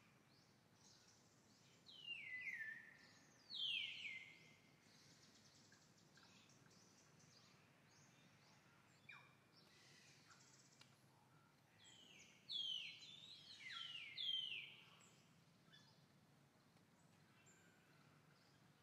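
Faint outdoor ambience with bird calls: loud whistles that each slide down in pitch, two together about two seconds in and three more about twelve to fourteen seconds in.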